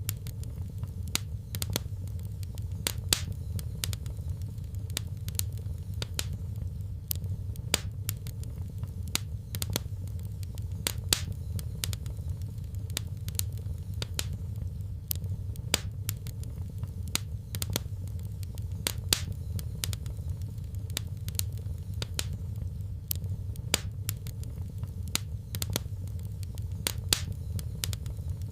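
Fire crackling in a fireplace: irregular sharp snaps and pops over a steady low rumble of the flames.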